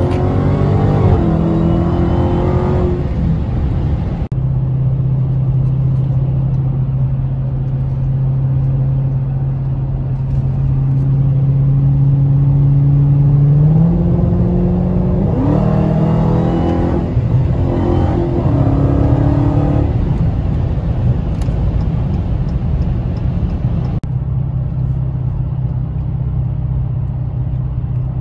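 Supercharged 6.2-litre HEMI V8 of a 2016 Dodge Challenger Hellcat, heard from inside the cabin. It accelerates near the start and again about halfway through, rising in pitch in steps through the gear changes, and cruises at a steady drone in between and at the end.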